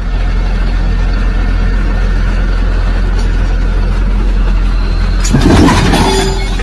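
A car's engine and road noise drone steadily and loudly. About five seconds in comes a short, louder, rough burst with several knocks.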